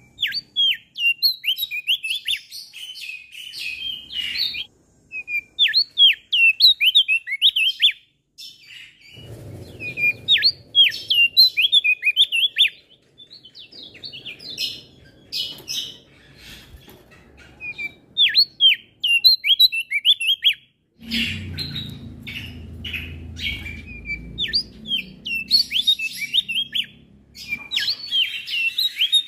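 Male opior jambul singing: quick runs of sharp, falling chirps, repeated in bursts with short pauses between them. A low rumble comes and goes behind the song.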